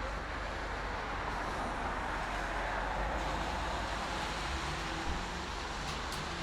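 Steady highway traffic noise: a continuous wash of tyre noise from passing vehicles over a low engine rumble.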